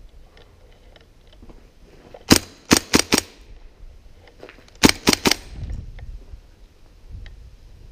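Airsoft gun firing two quick strings of shots, four shots and then three, about two and a half seconds apart.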